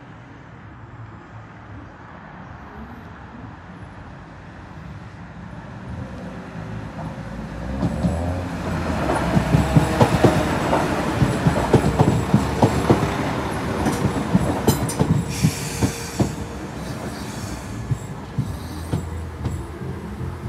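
A West Midlands Railway diesel multiple unit passing over a level crossing. It builds from a low rumble, then from about eight seconds in runs loud with rapid clattering as the wheels cross the rail joints, easing off near the end as it clears the crossing.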